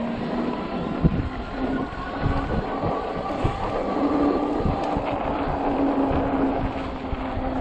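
Ecotric 48-volt fat-tire e-bike riding over snow: a steady hub-motor whine that steps up slightly in pitch about four seconds in, over the rush of fat tyres rolling on the snowy surface, with a few knocks from bumps.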